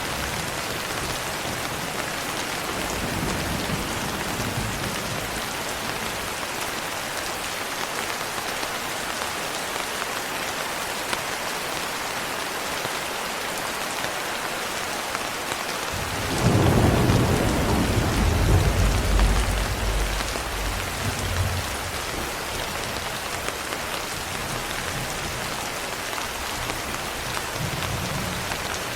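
Steady rain pattering on a window glass. A little past halfway a roll of thunder comes in suddenly, rumbles loudest for a few seconds, then fades away, with fainter distant rumbles near the start and the end.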